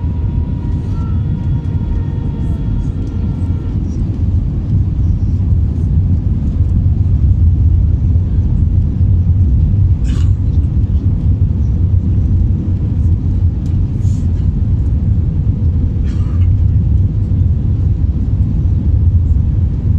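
Steady low rumble of an Airbus A321 in motion, heavy in the deep bass. A few short sharp clicks come through it near the middle.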